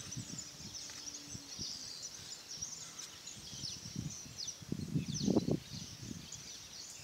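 Small birds chirping over and over in quick, high, falling notes, with a low rumble about five seconds in.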